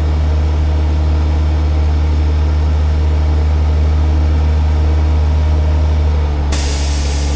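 Engine running steadily at a constant low pitch. A loud hiss starts suddenly about six and a half seconds in.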